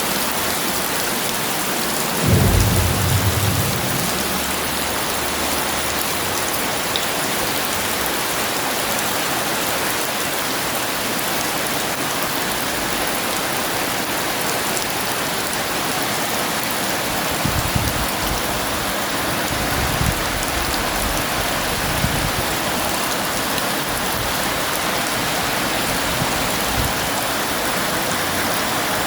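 Heavy rain falling steadily, with a rumble of thunder a couple of seconds in and a few more short low rumbles past the middle.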